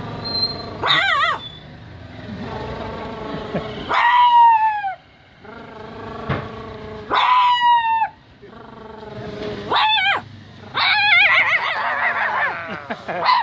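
A woman's vocal imitation of a hungry, distressed dog: a series of whines and yelps, some sliding down in pitch and others wavering, with a longer wavering whine near the end.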